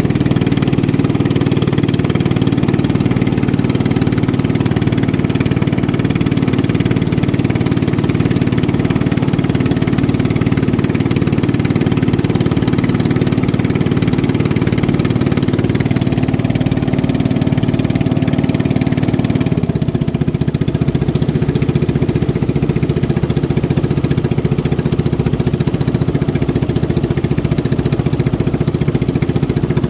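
Motorboat engine running steadily. About two-thirds of the way through the sound changes: the higher part fades and the low drone shifts in pitch.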